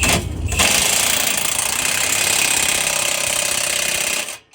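A power tool runs steadily for about three and a half seconds, driving home the bolt of an exhaust clamp, then stops abruptly.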